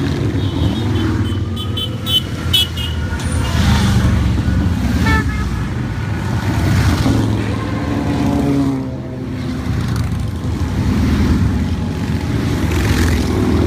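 A continuous stream of many motorcycles passing, engines rumbling and revving, with a brief horn toot about five seconds in.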